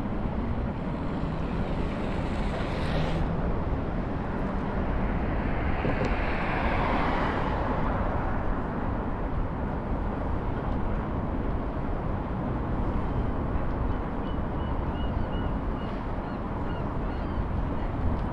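Steady wind rush on the microphone and street traffic noise while riding a scooter through city streets. A louder swell of traffic, such as a vehicle passing, comes about six to eight seconds in.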